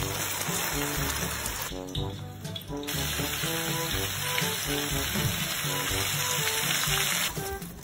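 Blended spice paste frying in hot oil in a wok, a steady sizzle that drops out briefly about two seconds in and stops shortly before the end. Background music plays throughout.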